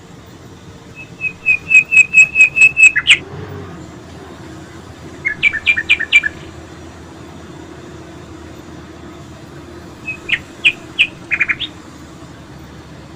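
A songbird singing three short phrases of quick repeated chirping notes, each phrase lasting one to two seconds with pauses of several seconds between them. The first phrase, about two seconds long, is the loudest.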